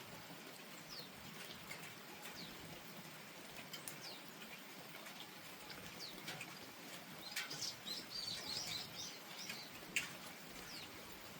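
Steady gentle rain falling, with a bird giving short, high, falling call notes about every second and a half, a quick burst of chirps about seven to nine seconds in, and one sharp tick near the end.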